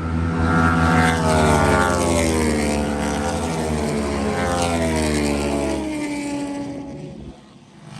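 Racing motorcycles passing on the track at speed, their engine notes sliding down in pitch as they go by, then fading near the end.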